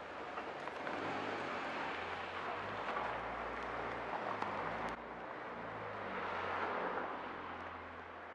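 Wood fire burning in a portable fire pit, with a few sharp crackles, over a steady rush of distant traffic whose low engine hum swells about three seconds in and again near the end.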